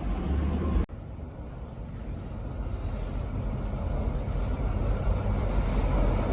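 Berlin U-Bahn train rumbling, cut off abruptly about a second in, then a train's rumble building steadily louder as it approaches.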